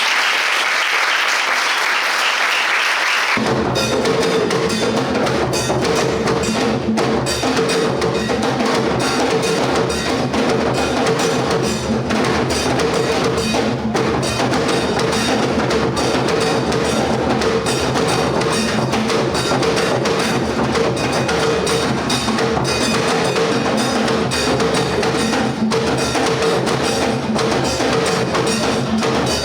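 Drum-led percussion music with a steady rhythm. It comes in about three seconds in, after a few seconds of high hissing noise.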